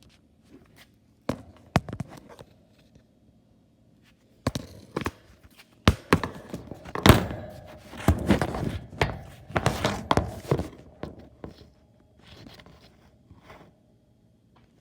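A string of irregular knocks, thumps and clatter, sparse at first and crowding together in the middle before thinning out again.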